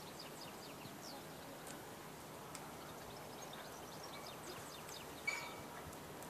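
Small birds chirping, many short quick notes over a steady outdoor hiss, with a single sharp click about five seconds in.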